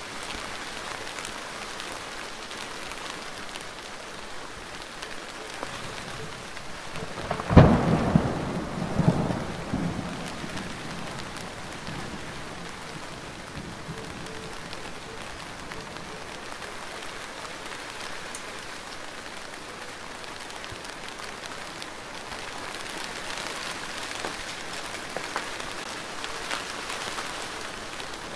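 Steady rain falling. About seven and a half seconds in, a sudden loud crack with a low rumble, a second smaller surge a moment later, dying away over about three seconds.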